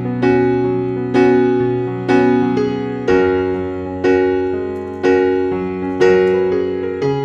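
Background piano music: slow, gentle chords, a new chord struck about once a second and left to fade.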